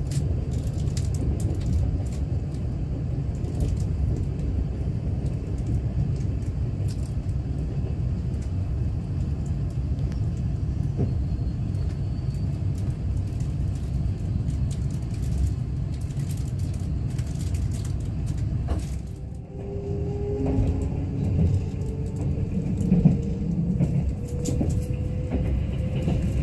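Kintetsu limited express train running, heard from inside the passenger car as a steady low rumble. About 19 s in the noise dips briefly, then a whine of several steady tones rises over the rumble as the train slows into a station.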